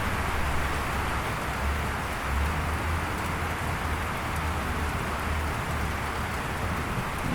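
Steady, even rain falling, with a low constant rumble underneath.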